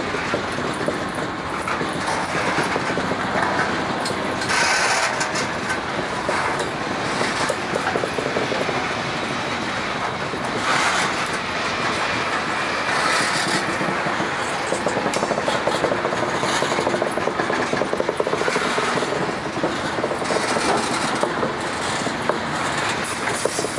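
Freight train boxcars rolling past close by, steel wheels on the rails making a steady rumble and rattle.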